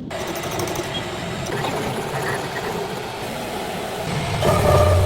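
Workshop metalworking machinery running with a steady mechanical noise, growing louder with a low hum near the end.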